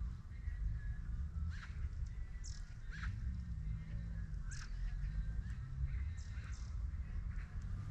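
Birds calling outdoors: short, sharp chirps and calls come every second or so over a steady low rumble.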